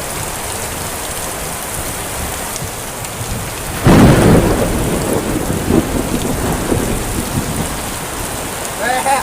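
Heavy tropical rain falling steadily. About four seconds in, a sudden loud clap of thunder breaks in and rolls on, fading over the next few seconds.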